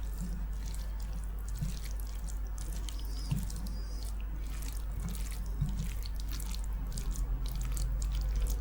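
Close-miked wet eating sounds: chewing and mouth smacks of soft, saucy food such as daal and rice, heard as a rapid scatter of small wet clicks.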